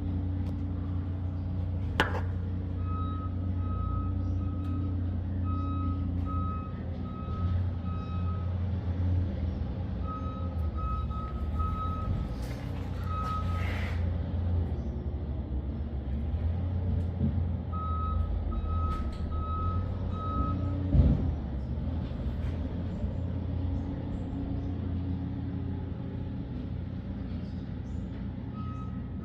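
Engine running with a steady low rumble. Over it, a reversing-alarm-style beep repeats a little under twice a second in spells of a few seconds, and there are two sharp knocks, about two seconds in and near twenty-one seconds.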